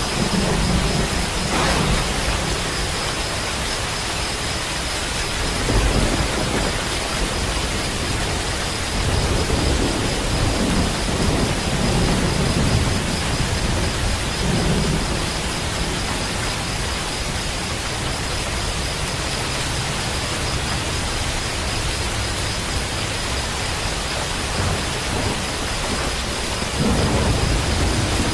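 Steady heavy rain, with low rolls of thunder rumbling in and out several times.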